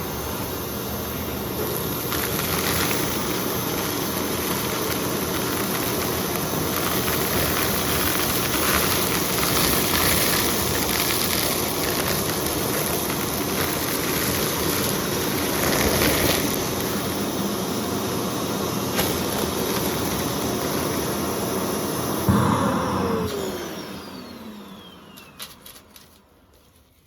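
Vacuum cleaner running with a steady rush and scattered crackling as debris is sucked up. About 22 seconds in it is switched off with a thump, and the motor's falling whine fades as it spins down.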